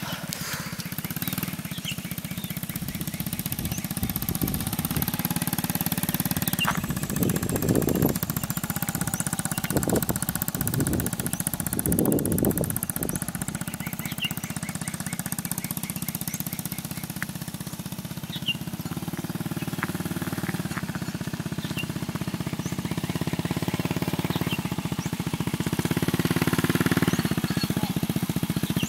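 Antique English motorcycle engine running, its revs rising in several brief swells around a quarter and nearly half of the way through, and louder again near the end.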